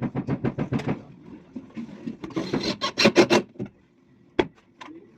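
A hand tool works a board with quick rasping strokes, in two bursts, the second louder. A single sharp knock follows near the end.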